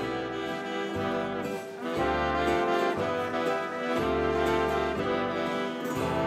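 A 1930s-style dance band playing a slow ballad, with brass and saxophones carrying sustained harmonies over a bass that moves about once a second.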